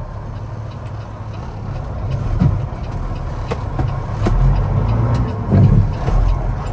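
Heavy truck's diesel engine running with a steady low rumble, growing louder about two seconds in, with a few knocks over it.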